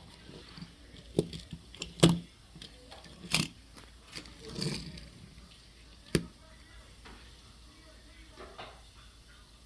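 A handful of light, separate knocks and clicks, the loudest about two seconds in and the last about six seconds in, with a faint background between them.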